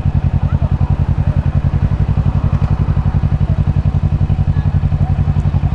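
Kawasaki Ninja 650 parallel-twin engine idling steadily in stop-and-go traffic, a low, evenly pulsing exhaust note that neither revs up nor drops.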